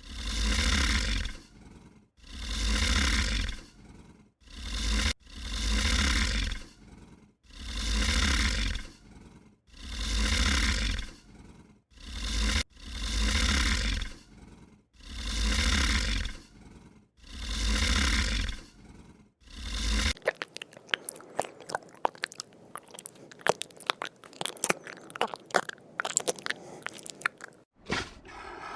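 An animal's harsh, noisy call, repeated about every two seconds with the same length and shape each time. After about twenty seconds the calls stop and a run of sharp, irregular crunching clicks follows.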